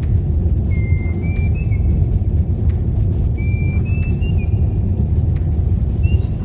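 A car driving on the road: a steady low rumble of road and engine noise. Short high whistled notes come in three times, about a second in, around the middle and near the end.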